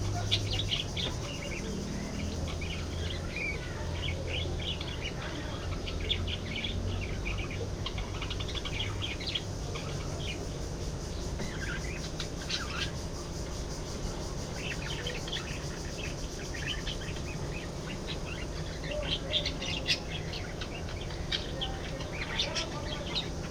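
A flock of budgerigars chattering: many short, rapid chirps and warbles in dense bursts, with a thinner stretch around the middle, over a low steady hum.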